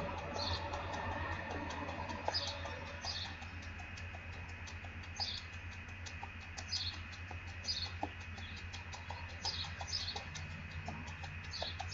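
Birds chirping in short, repeated calls over a steady low hum, with light, rapid tapping of sneakers landing on a concrete walk during quick lunge jumps.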